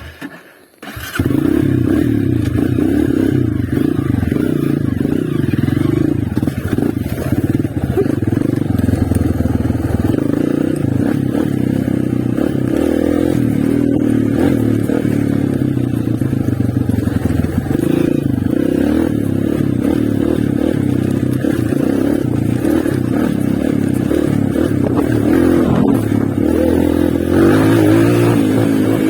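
Honda CRF230 trail bike's single-cylinder four-stroke engine running steadily. The engine sound comes in abruptly about a second in.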